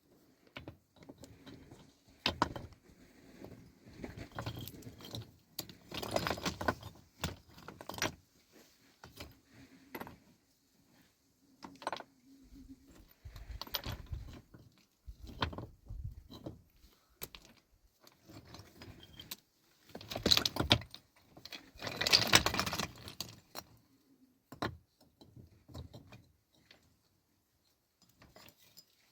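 Irregular clinking and rattling of hard objects being handled, in uneven bursts. It is loudest about six seconds in and again from about twenty to twenty-three seconds in.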